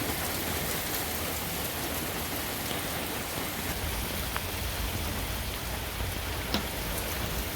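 Heavy rain pouring down steadily, with a few faint sharp ticks of drops striking.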